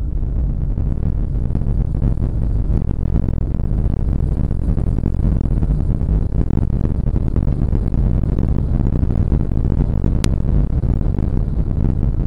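Porsche 911 997 Turbo's twin-turbo flat-six running at speed, a steady low rumble mixed with road noise, heard from inside the car. A single sharp click comes about ten seconds in.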